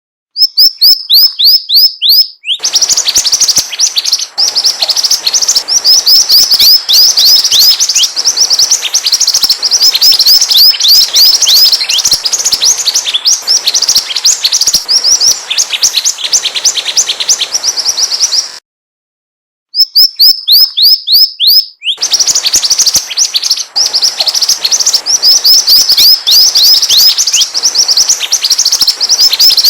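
Mantenan bird song played as a lure recording: rapid runs of short, high, down-slurred chirps, loud and busy. It breaks off into silence for about a second about 19 s in and then starts over with the same phrase.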